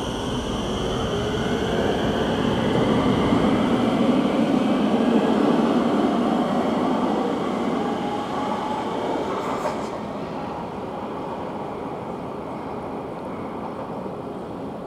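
Electric train running past with a whine that slowly rises in pitch as it picks up speed. It is loudest about five seconds in, then fades.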